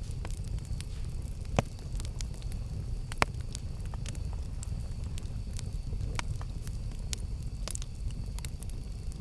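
Campfire burning: scattered sharp crackles over a low steady rumble, with two louder pops, about one and a half and three seconds in.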